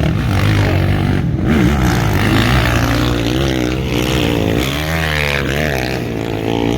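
Motocross dirt bike engines revving, several at once, their pitch repeatedly rising and falling as the riders work the throttles.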